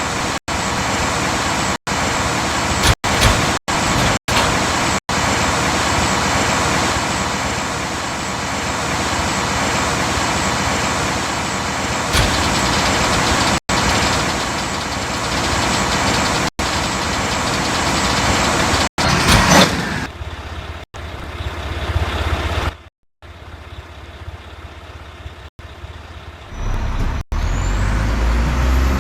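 Mack rear-loader garbage truck running, a loud steady noise broken by brief dropouts. About two-thirds of the way through it falls much quieter, and near the end a low engine rumble builds up again.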